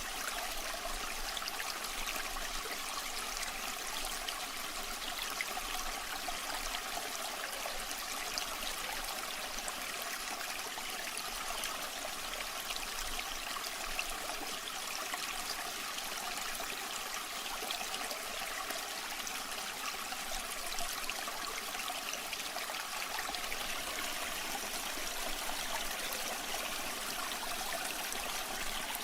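Waterfall water running and splashing in a steady, unbroken rush, mostly hiss and splash with little deep rumble.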